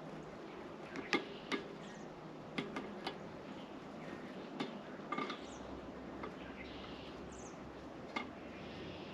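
Birds at a bird feeder tapping and pecking, with about eight scattered sharp clicks and a couple of short, faint high chirps.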